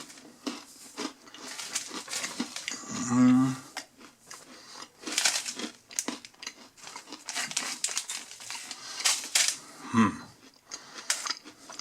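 Close-up crunching and chewing of a dry, crunchy oats-and-honey granola bar, an irregular run of crackly bites and chews, with a short hum from the eater about three seconds in and again near the end.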